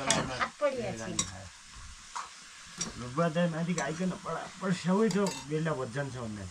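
Chicken pieces sizzling as they fry in a wok, a metal ladle stirring and clicking against the pan. Voices talk over it in the first second and again through the middle.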